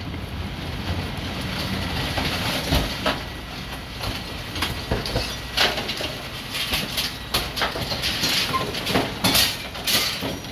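A steady rattling clatter of metal with many irregular sharp knocks, getting busier about halfway through, from a pickup truck with a Par Kan EZ Dump body working at a trash transfer station.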